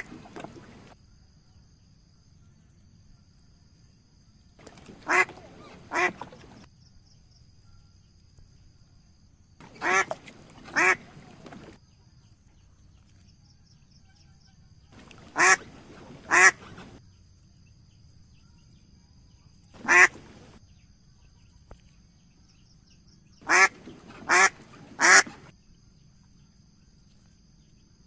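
Duck quacking: short calls in ones, pairs and a final run of three, the calls in a group about a second apart, with the groups coming about every five seconds.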